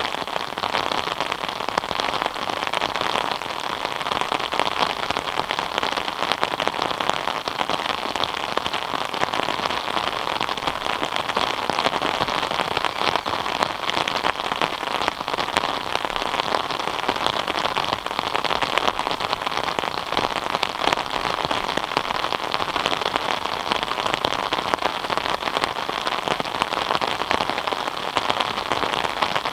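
Steady rain falling on a surface: a dense, even patter of many drops.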